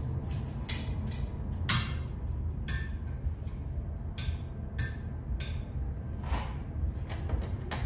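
Scattered light clicks and clinks of small tools and wiring being handled, about ten in all, the sharpest a little under two seconds in, over a steady low hum.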